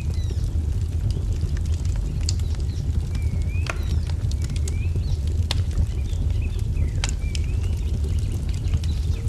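Wood fire crackling, with sharp pops every second or two over a steady low rumble, while a bird repeats short chirping notes.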